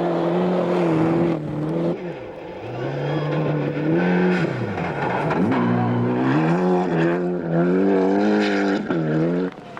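Group A rally car's turbocharged four-cylinder engine at full effort on a special stage. It revs up and drops back at each gear change or lift, with a brief lift about two seconds in and repeated climbs and shifts after that.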